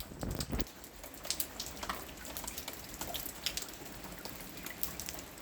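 Raindrops dripping: scattered, irregular drops ticking onto a surface, with a couple of low thumps in the first second.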